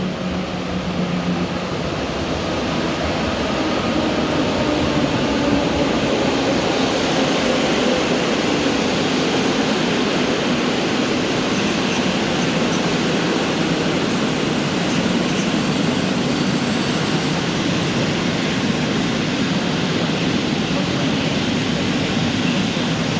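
Train running at the platform: a loud, steady rumble and hiss that builds over the first few seconds and then holds, with a faint tone slowly falling in pitch.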